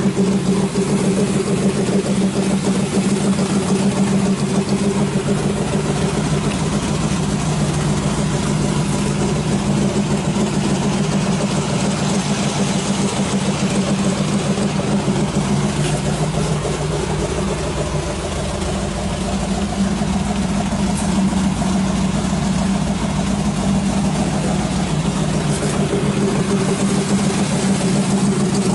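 A 1937 Chevy truck's 383 stroker small-block V8 idling steadily, briefly a little quieter a bit past halfway.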